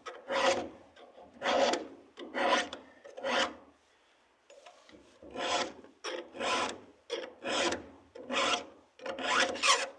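A hand file rasping across a chainsaw chain's cutter teeth in even push strokes, about one a second, with a short break near the middle.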